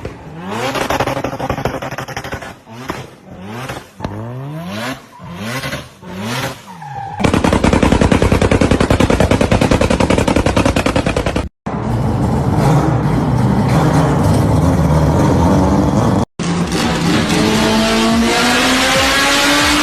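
Turbocharged Mazda RX-7 rotary engine revving through the exhaust: a string of quick rev blips rising and falling in pitch, then a loud, fast rattling exhaust note at high revs, and in a later clip a steady pull with the pitch climbing as it accelerates.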